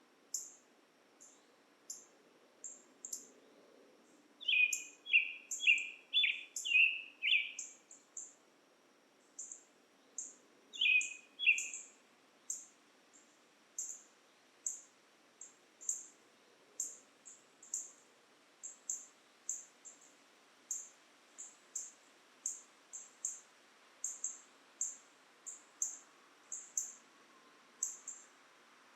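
Birds calling in woodland: a short, high chirp repeated about once or twice a second throughout, with a quick run of five lower, falling notes about four seconds in and two more around eleven seconds.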